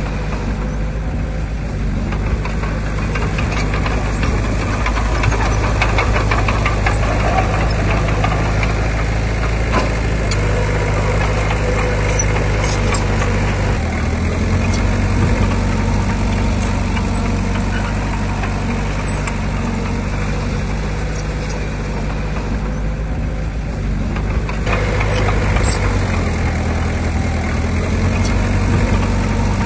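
Diesel engine of heavy earthmoving machinery running steadily, its pitch stepping up and down a few times.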